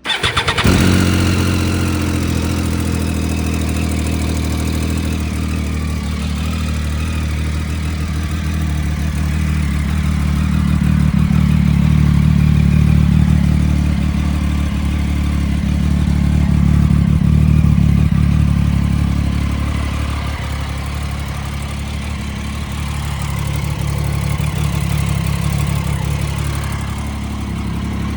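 Triumph Daytona 675's three-cylinder engine starting and settling into a steady idle. It fires up right at the start, and the level then swells and eases slowly.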